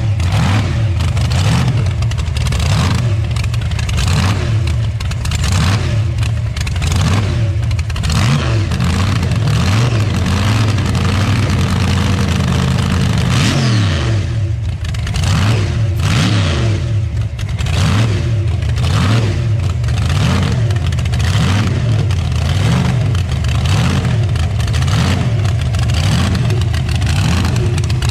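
Car engine running steadily and loud, its pitch rising and falling again and again as it is revved and eased off.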